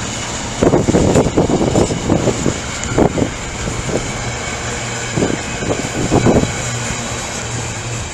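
Train noise: a steady low drone with irregular heavy rumbling surges, twice over several seconds, plausibly the tail of a Class 66-hauled freight train going by.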